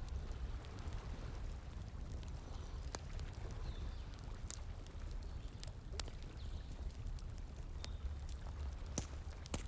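Wood fire crackling, with a few sharp, scattered pops, over a steady rush of flowing water.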